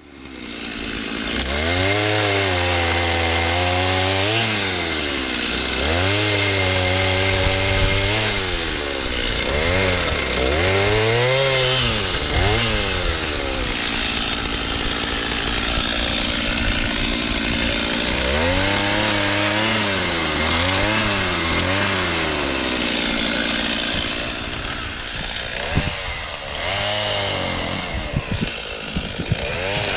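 Chainsaw cutting up a blown-down spruce. Its engine revs up and sinks in pitch again and again, settles for a while in the middle, then runs lower near the end with a few knocks.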